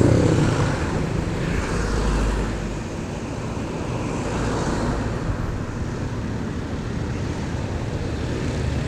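Steady road and traffic noise from a motorcycle ride, with a low engine hum that is strongest in the first few seconds.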